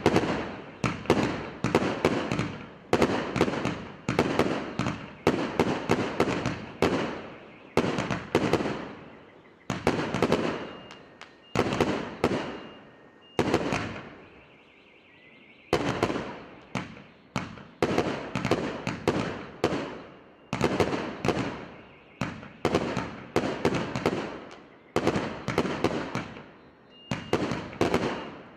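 A 200-shot, 1.2-inch fireworks battery (cake) firing a rapid volley, shot after shot a couple of times a second, each with a sharp report that dies away. There is a short lull about halfway through before the firing resumes.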